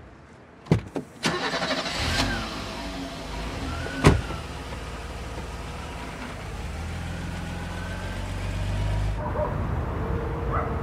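A car engine starts and runs, with a sharp knock about four seconds in. The engine sound cuts off abruptly near the end, and soft music comes in.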